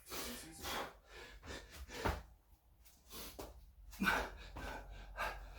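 A man breathing hard in short, heavy gasps in the middle of a burpee set, with a dull thump about two seconds in.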